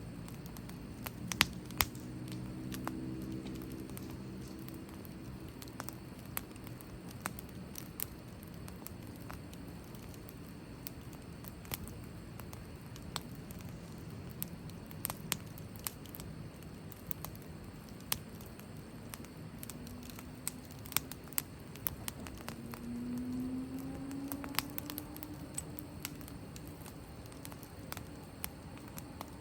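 Wood fire crackling, with irregular sharp pops from the burning wood. A faint low hum comes and goes twice.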